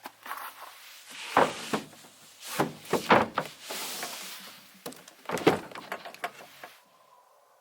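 Irregular knocks, thuds and scraping of gear being handled and set in place, with a handful of louder clunks. It stops abruptly near the end.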